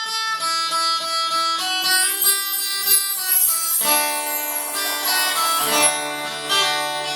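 Music: guitar picking a melody of ringing single notes, with lower bass notes joining about halfway through.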